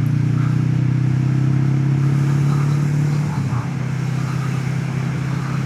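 Motorcycle engine running at a steady cruising speed, heard from the rider's position. About three and a half seconds in the engine note drops slightly, as when easing off the throttle.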